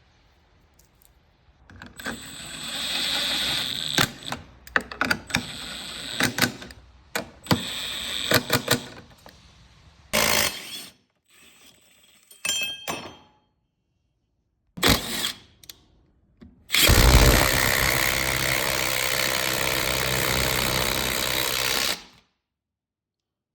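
Mechanical clicking and ratcheting from tools and hardware, then several short separate bursts. Near the end a loud, steady mechanical run lasts about five seconds and cuts off suddenly.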